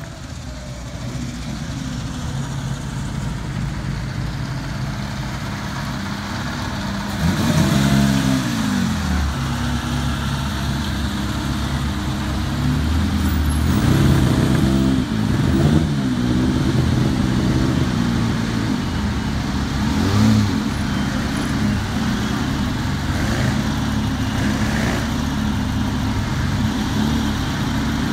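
Several vintage Bugatti racing cars' engines running at low speed close by, with a steady rumble and short revs that rise and fall several times, loudest about eight and fifteen seconds in.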